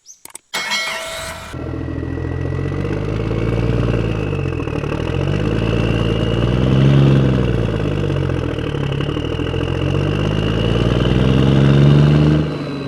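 An engine running with a low, steady drone that swells in level and pitch twice, starting with a short crackle about half a second in and fading near the end.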